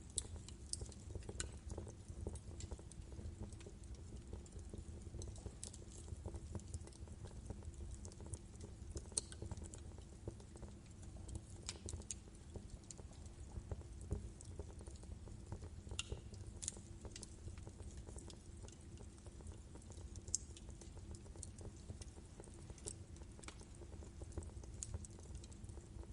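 Wood fire burning in a fireplace: a low, steady rumble of the flames with sharp, irregular crackles and pops from the burning logs.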